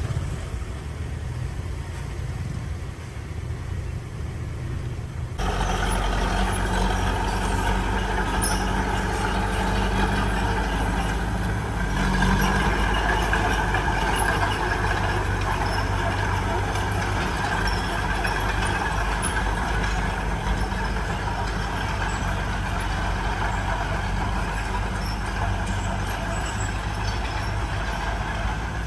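Heavy diesel construction machinery running. About five seconds in, the engine steps up to a louder, fuller note and holds there under steady load.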